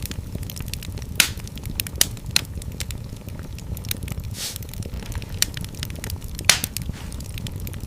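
Fireplace fire crackling over a steady low rumble, with a few louder pops, the loudest near the end, and a brief hiss midway.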